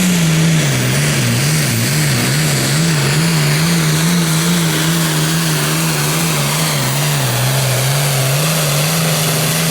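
Super Farm pulling tractor's diesel engine running at full power on a pull, loud and steady, its pitch wavering up and down.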